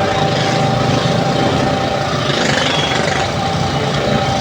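A 2 hp piston air compressor running steadily, its motor and pump giving a constant hum with a few steady tones.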